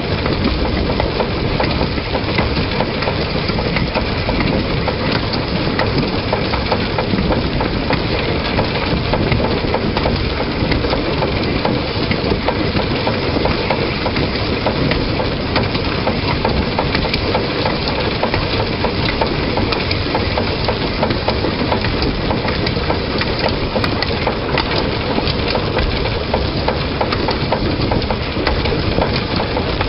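Narrow-gauge train running along the line, heard from a camera mounted on the front of the locomotive: a steady rumbling noise with constant crackling clicks.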